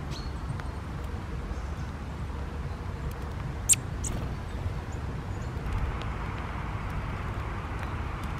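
Rain falling on a camera covered with a paper towel: a steady low rumble with scattered light ticks of drops. One sharp click comes about three and a half seconds in, and a second one just after it.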